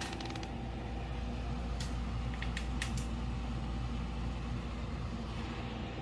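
Portable camping air conditioner running: a steady hum from its compressor and fan with a constant whine, and a few light clicks between two and three seconds in.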